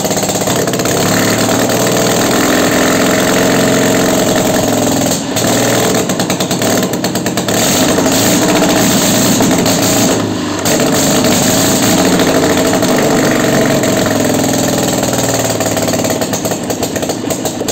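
Panhard M8S air-cooled flat-twin engine running on a test stand through open exhaust ports on its first run, revving up and down, with brief stumbles about five and ten seconds in. It runs unevenly: the ignition is not yet set and the left cylinder draws false air, so it partly runs on one cylinder.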